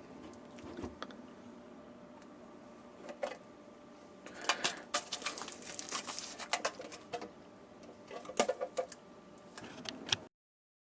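Scattered light clicks and knocks of small objects being handled, in irregular clusters over a faint steady background, cutting off abruptly near the end.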